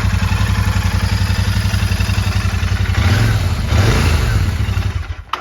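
Royal Enfield Super Meteor 650's parallel-twin engine idling with an even pulsing beat, revved briefly about three seconds in, then stopping suddenly near the end.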